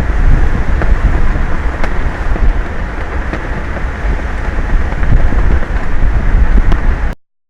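Wind buffeting an outdoor camera's microphone: a loud, gusty rumble over the hiss of the sea below. It cuts off abruptly about seven seconds in.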